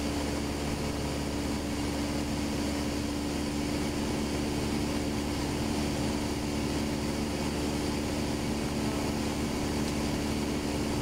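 Steady drone of a light single-engine propeller aircraft's engine and propeller heard from inside the cockpit, holding an even pitch and level in cruise.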